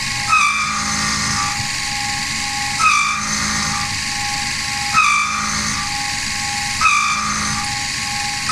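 Home-built CNC milling machine running a program, its stepper-motor axis drives whining and changing note with each move. The moves repeat about every two seconds, each starting with a short rising whine over a steady hum.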